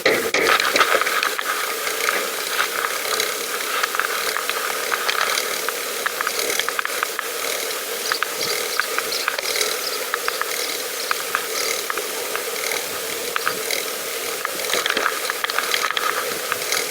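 Bicycle freewheel ticking in a fast, continuous run of clicks as the pedal bike coasts.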